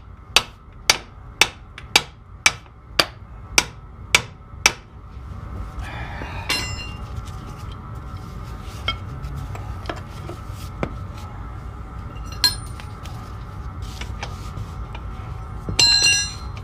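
Hammer blows driving an old bolt out of a backhoe landing-leg bracket, about two strikes a second for the first five seconds. Then a few light metal clinks, and a loud ringing metal clank near the end.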